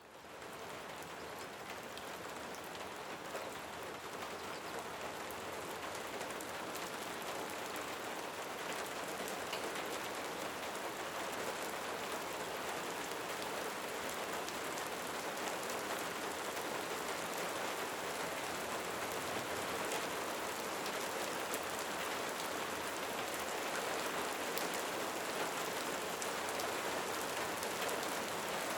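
Steady rain falling, fading in within the first second, with scattered sharper drop ticks over an even hiss.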